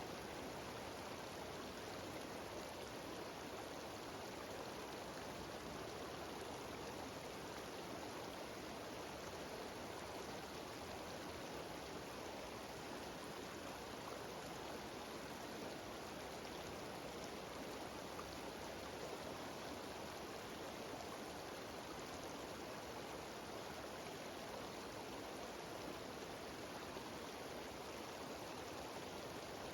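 Mountain waterfall cascading down into a stream: a steady, unbroken rush of water.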